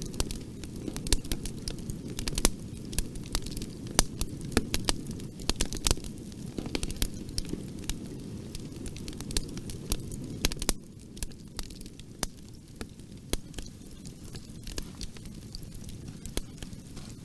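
Wood fire in a fireplace crackling, with frequent irregular sharp pops over a low, steady rumble. About eleven seconds in, the rumble drops a little and the pops thin out.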